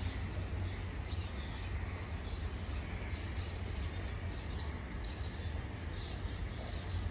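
Birds chirping, with many short high calls scattered through, over a steady low rumble.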